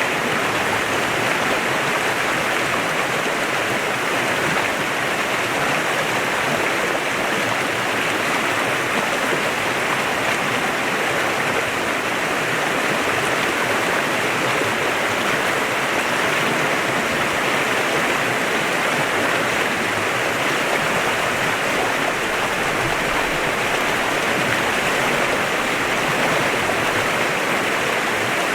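Clear mountain stream flowing steadily over rocks, an even rushing of water.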